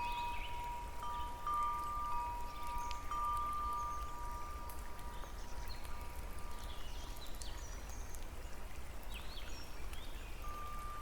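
Wind chimes ringing in long, sustained tones that fade out about halfway through and come back near the end. Short high chirps are scattered throughout, over a steady low rumble.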